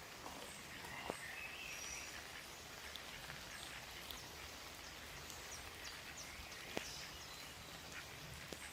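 Light rain falling, with scattered drops ticking and a few sharper drips, and a few faint bird calls about two seconds in.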